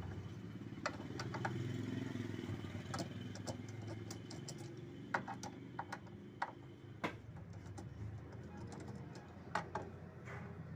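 Scattered sharp metallic clicks and taps of a 10 mm socket wrench working the stator bolts of an LG Inverter direct-drive washing machine, irregular, over a steady low hum.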